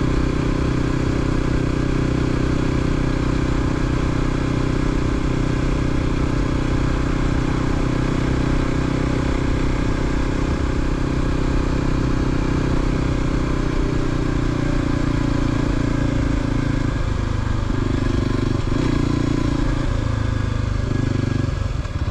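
A 2023 Kawasaki KLX300's single-cylinder four-stroke engine running through a Delkevic 14-inch slip-on exhaust while riding. It holds a steady note, then steps down in pitch a few times over the last several seconds as the bike slows.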